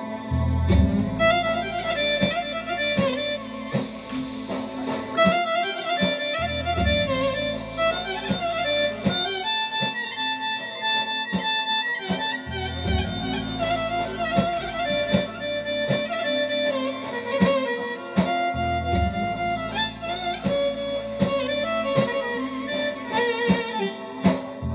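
Music: a keyboard taksim, a Turkish melodic improvisation in a reedy, wind- or violin-like lead voice over held bass notes.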